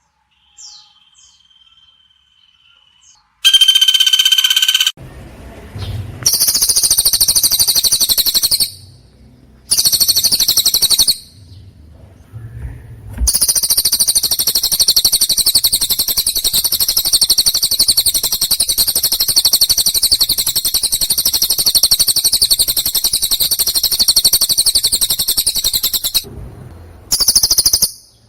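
Songbird song recorded for training competition birds: a fast, high, unbroken chattering trill that runs in long stretches, the longest about thirteen seconds. It comes after a clear whistled note and a couple of shorter trilled bursts.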